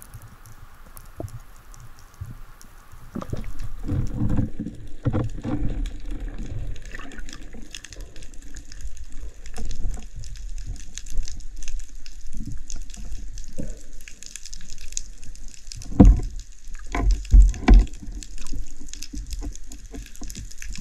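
Water gurgling and sloshing, picked up on a spearfisher's camera, starting about three seconds in. A few loud thumps come near the end.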